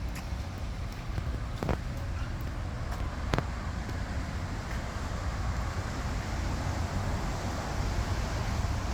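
Car engines running with a steady low rumble, with two sharp clicks in the first few seconds.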